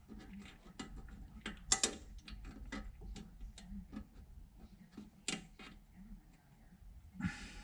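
Irregular small metallic clicks and taps of bolts, washers and a valve bracket being handled and fitted by hand, with a louder clatter about two seconds in and again about five seconds in, and a brief scrape near the end.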